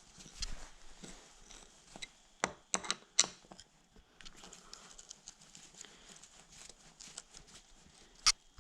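Scattered metal clicks and taps from a screwdriver and hand working the screws of a dirt bike's clutch master cylinder reservoir cap. A quick run of clicks comes about two and a half to three seconds in, and one sharp click comes near the end.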